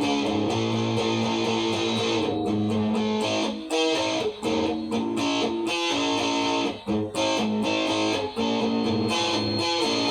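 Guitar playing sustained chords in an instrumental passage of a rock song, the chords changing every second or so, with a few brief breaks in the sound.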